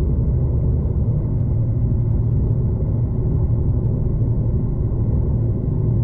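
V/Line passenger train running along the line, heard from inside the carriage as a steady low rumble.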